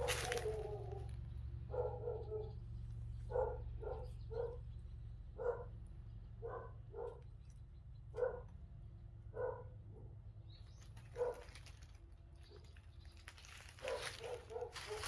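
A dog barking repeatedly: about a dozen short barks at uneven intervals, over a steady low rumble.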